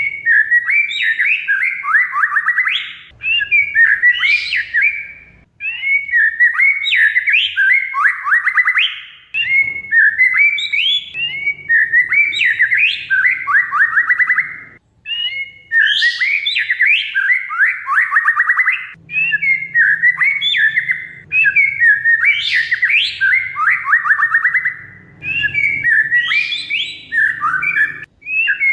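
Oriental magpie-robin (kacer) singing a loud, varied song in phrases of several seconds, mixing clear whistles with fast rattling trills that slide downward, with short breaks between phrases.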